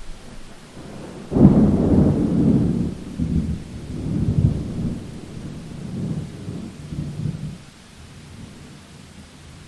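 A thunderclap over steady rain: a sudden loud rumble breaks in about a second in, rolls on in several swells and fades out after about six seconds, leaving the rain.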